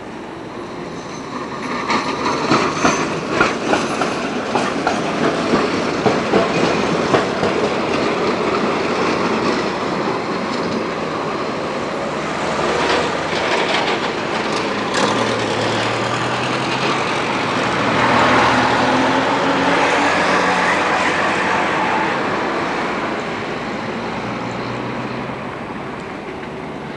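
Tram passing close, its wheels clattering in a run of sharp knocks over rail joints and crossing work. A low steady hum and rolling noise follow about halfway through.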